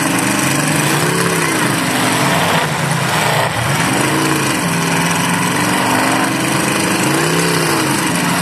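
Demolition derby cars' engines running in a loud, steady din. One engine revs up and falls back three times, about a second in, at four seconds and near the end.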